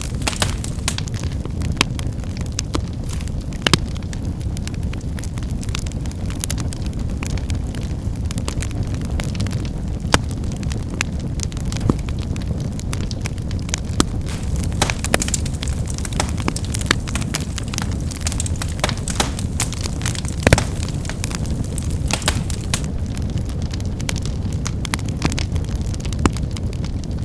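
Wood fire burning with a steady low rumble and frequent irregular crackles, with a few louder snaps of the firewood.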